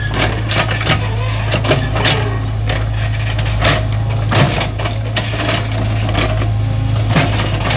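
Excavator's diesel engine running steadily under load, with irregular clanks and knocks from the bucket and tracks as it digs.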